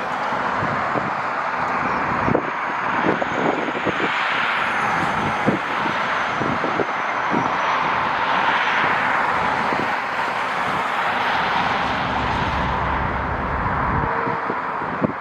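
Jet airliner engine noise running steadily with a faint high whine, swelling and easing over several seconds. Wind buffets the microphone in gusts throughout.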